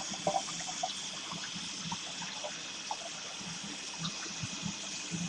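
Water running steadily from a tap and trickling, with small scattered drips.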